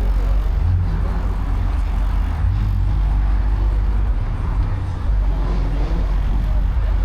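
Car engines running with a steady low rumble across a car meet lot.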